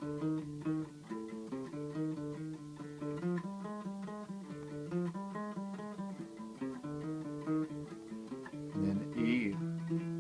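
Bass guitar playing the song's guitar-break riff, a quick repeating run of single plucked notes.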